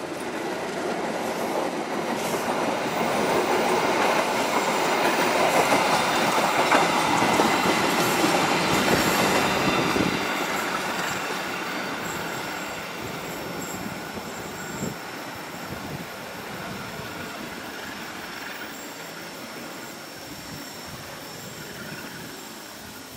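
Diesel-hauled passenger train passing close and pulling away round a curve: locomotive and coaches with wheels clattering on the rails and a thin squeal from the wheels. It grows loudest several seconds in, then fades slowly as the train draws away.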